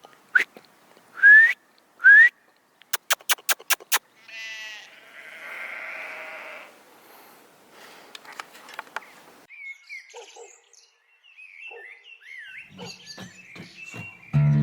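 Sheep bleating, among them two loud short calls with a rising pitch early on and a wavering bleat a few seconds later. A quick run of camera shutter clicks about three seconds in, and small birds chirping in the second half.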